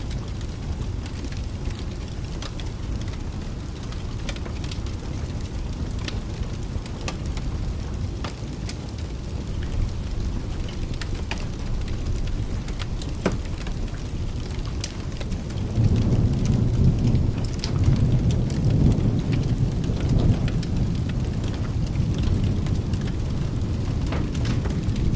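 Steady rain with scattered sharp crackles, and a low rumble of thunder that swells about two-thirds of the way in and rolls on.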